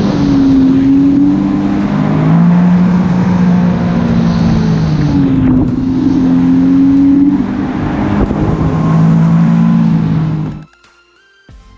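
Jet ski engines running hard and changing revs, their pitch rising and falling, over heavy wind and water noise. The sound cuts off suddenly near the end and quiet music begins.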